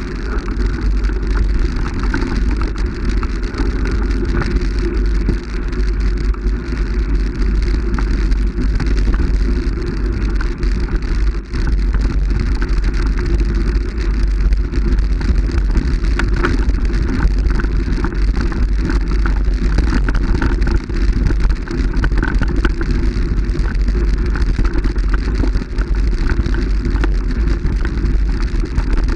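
Steady low wind rumble on the microphone with rough, crackling noise over it, like tyre and road noise from a moving vehicle.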